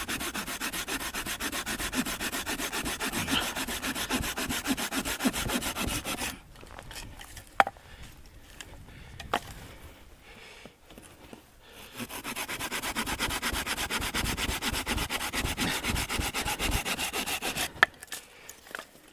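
Hand saw cutting through dead wood in two long runs of quick back-and-forth strokes, with a pause of several seconds between them broken by a couple of sharp knocks.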